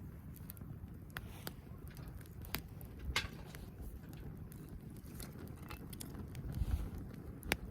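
Irregular light clicks and knocks, a few sharper than the rest, over a steady low rumble.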